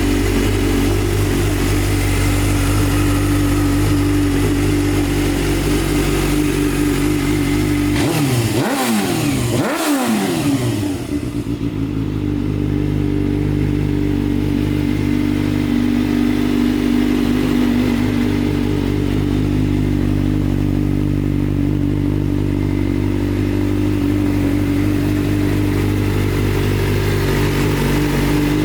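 Suzuki GSX-R750's inline-four engine idling steadily, with two quick revs rising and falling about eight to ten seconds in before it settles back to idle.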